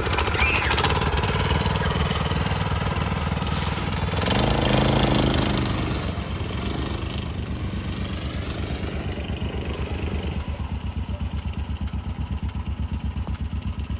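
Kids' four-wheeler (ATV) engine running with an even putter. It revs up briefly about four seconds in, then settles back to a steady, lower putter.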